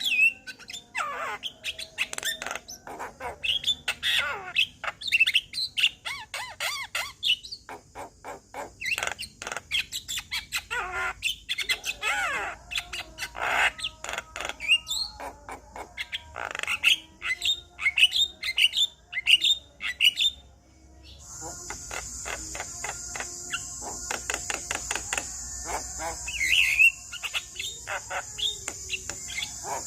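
Male Javan myna singing a fast, varied run of whistled glides, chirps, harsh squawks and clicks. About two-thirds of the way through, a steady high hiss sets in beneath the calls.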